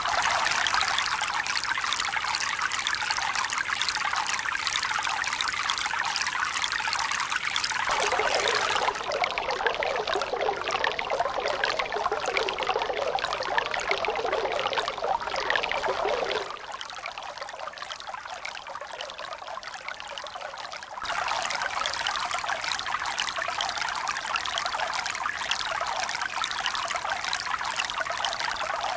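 Running water, a steady trickling, pouring rush. Its character switches abruptly several times, about a third of the way in, just past halfway and again about two-thirds in, as if separate water recordings were joined. It is quieter and duller for a few seconds in the middle.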